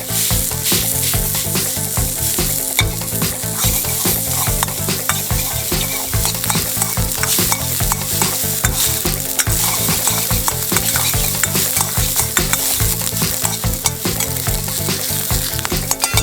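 Frozen fried rice sizzling in a hot Chinese wok while it is stirred and tossed, with many quick scrapes and clacks against the wok over a steady frying hiss.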